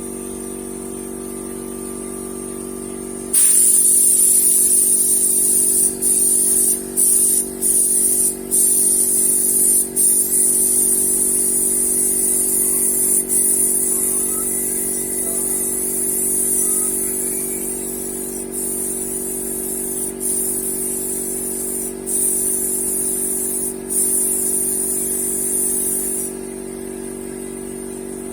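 Paint spray gun hissing in long bursts, the trigger released briefly about ten times, then let go near the end. A steady low hum sits underneath.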